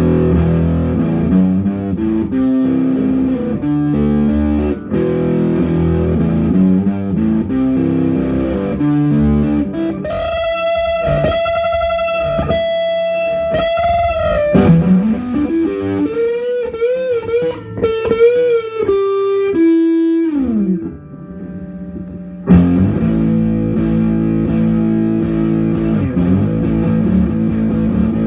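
Electric guitar played through an amplifier, now sounding again after its loose input-jack wire was resoldered. It plays riffs, then held notes with vibrato and string bends, a slide up and a slide down, a brief lull, and riffing again.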